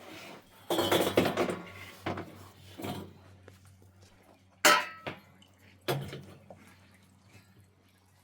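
Kitchenware being handled: a burst of clattering about a second in, then several separate knocks and clinks, the loudest a sharp one a little past halfway.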